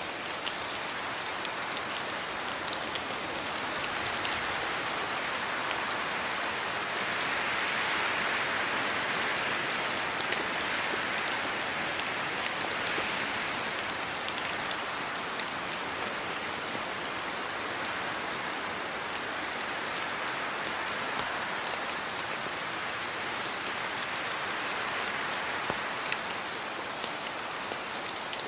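Steady rain falling, with many separate drops ticking through the constant hiss. The downpour grows a little heavier a few seconds in, eases, and swells again near the end.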